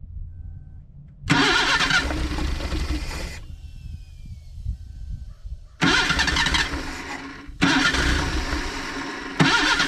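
A 1979 Datsun's carburetted engine being started on fuel poured straight into the carburettor. It catches about a second in and dies after about two seconds. It then fires again near the middle and surges up twice more toward the end, each catch coming in suddenly.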